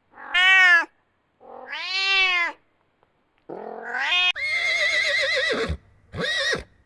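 An animal calling four times with separate pitched cries: two short arching calls, then a long wavering one, then a short one near the end.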